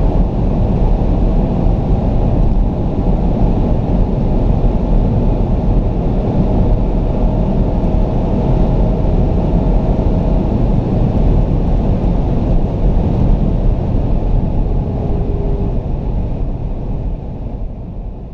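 2017 Porsche Panamera Turbo running at high speed: a steady, dense rush of wind, road and engine noise with a faint steady whine. It fades out near the end.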